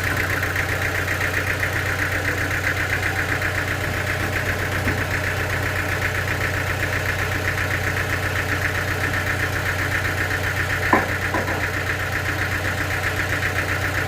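The sawmill's engine runs at a steady idle with a fast, even pulse. A single sharp knock sounds about eleven seconds in.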